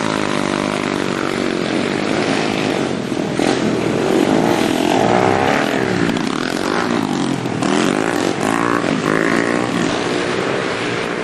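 Small pit bike engines revving up and down as the bikes are ridden, several engines overlapping and their pitch rising and falling again and again.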